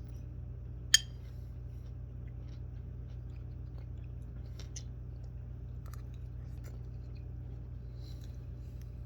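A pet cockatoo biting and crunching cucumber: one sharp crunch about a second in, then scattered faint crunches and clicks over a steady low hum.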